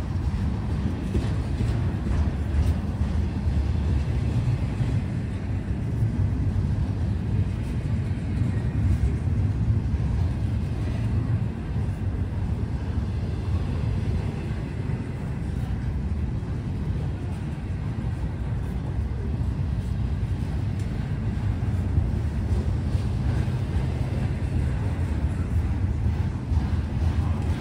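Cars of a long freight train rolling past: a steady, low rumble of wheels on rail.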